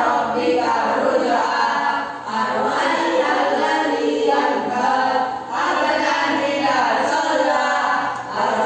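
A group of voices singing together, unaccompanied, in held phrases with short breaks between them.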